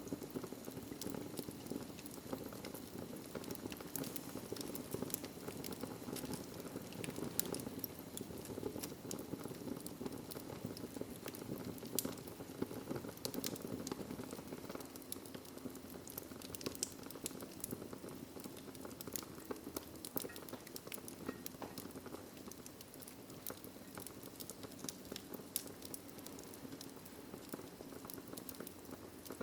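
Wood fire burning in a fireplace: a steady low rush of flames with frequent irregular crackles and pops from the burning logs.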